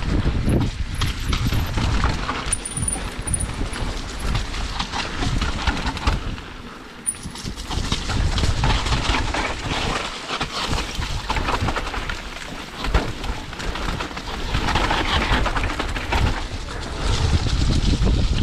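Mountain bike riding a downhill trail: tyres rumbling over dirt and rocks, with constant rattling and knocking from the bike and wind buffeting the microphone. The noise eases briefly a few times.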